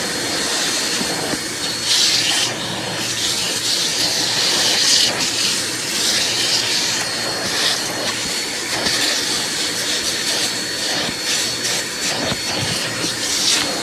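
Vacuum cleaner running steadily with a constant high whine, and repeated swells of hissing air.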